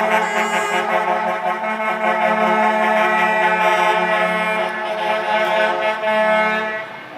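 Truck air horns blaring together in one long, steady chord of several tones, easing off near the end.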